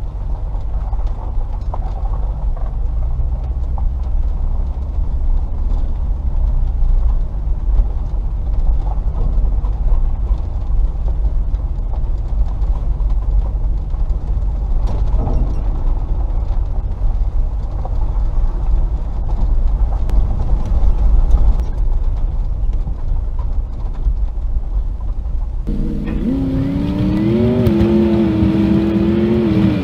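Range Rover P38's 4.0-litre V8 driving along a rough track: a low rumble with scattered knocks. About 26 s in it changes abruptly to a clearer engine note that rises and falls in pitch with the throttle.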